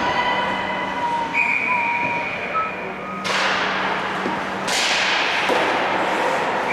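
Ice hockey play on the rink: two sudden hissing scrapes, like skate blades digging into the ice, about three and four and a half seconds in, over steady rink noise.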